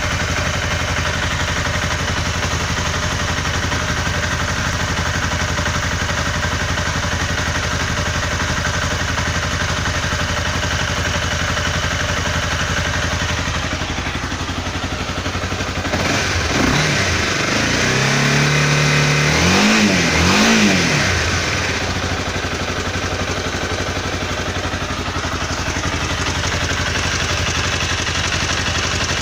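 Honda CBR250R single-cylinder engine idling steadily with a ticking, knocking noise that the owner cannot explain. About halfway through it is revved in a few quick blips, one held briefly, then it settles back to idle.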